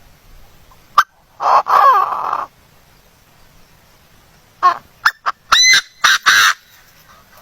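A bird calling loudly: one long call with a wavering pitch about a second and a half in, then, after a pause, a quick series of short calls with rising pitch ending in two longer ones.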